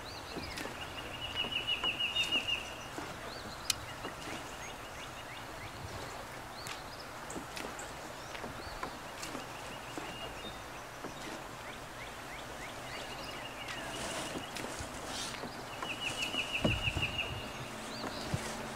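A songbird singing a rapid trill on one pitch, repeated four times with long pauses between, the first and last loudest. A low bump near the end.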